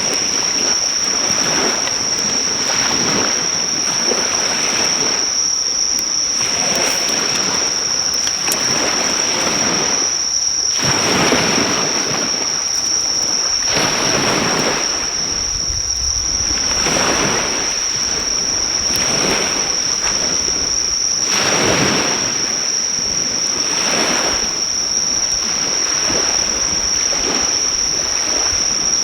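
Waves washing on the shore in repeated swells every second or two, under a continuous high-pitched insect trill. Now and then the driftwood fire gives a faint crackling pop.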